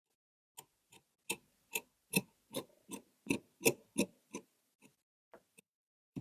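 Tailor working at the table: a run of about a dozen short knocks and clicks, two or three a second, loudest in the middle and thinning out near the end.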